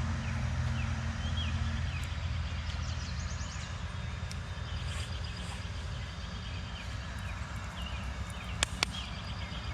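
Birds chirping in short calls over a steady low rumble, with two sharp clicks close together near the end.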